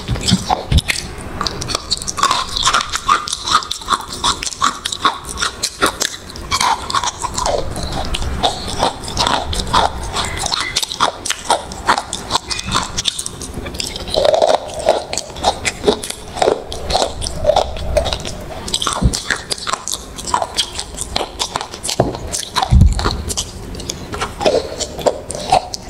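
Close-miked biting and chewing of a crumbly, chalky food: a dense run of crunches and crackles, loudest on the bites.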